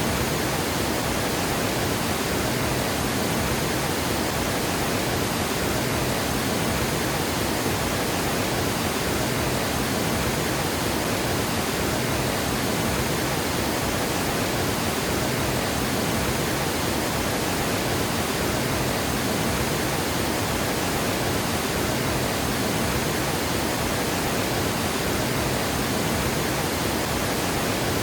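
Water pouring over a dam spillway: a steady, even rush of falling water that does not change.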